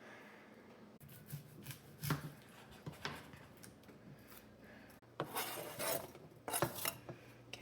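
Knife cutting onions on a cutting board: irregular knocks of the blade on the board, with a louder stretch of scraping noise about five seconds in.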